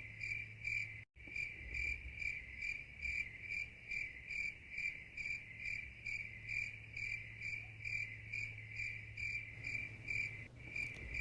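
Crickets chirping in an even, steady rhythm of about two chirps a second, used as a night-time sound effect.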